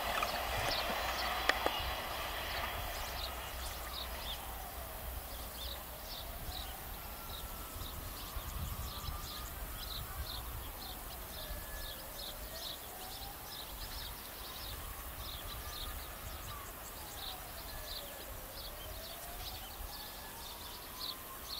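A Siemens Desiro diesel multiple unit running away on the track, its noise fading over the first few seconds. After that, birds chirping, and a faint tone gliding slowly down and back up about every six seconds.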